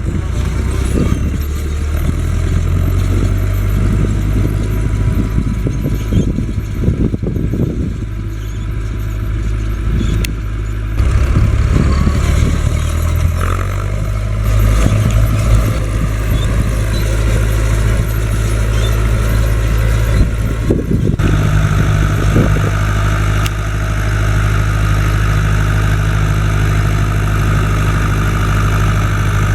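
Fendt Farmer 106 S tractor's four-cylinder diesel engine running under work. Its engine note shifts a few times and settles into a steadier note about two-thirds of the way through.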